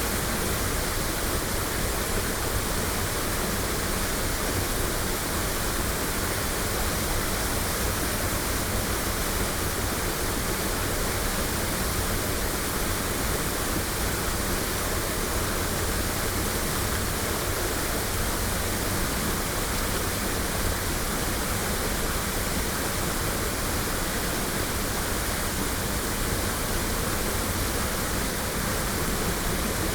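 Shirafuji Falls, a waterfall, pouring steadily: an even, unbroken rush of falling water with no changes, recorded binaurally.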